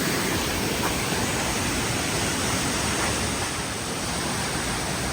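Steady rush of a waterfall and fast-running creek swollen after storms.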